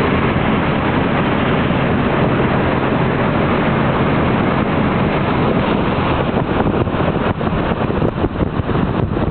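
Mercury 165-horsepower boat motor running steadily under way, mixed with a rush of wind and water. From about six seconds in, the sound turns choppier, with rapid uneven pulses.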